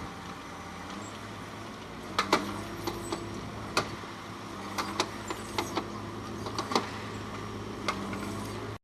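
Construction-site machinery running with a steady hum, with irregular sharp knocks and clanks about a dozen times; the sound cuts off suddenly near the end.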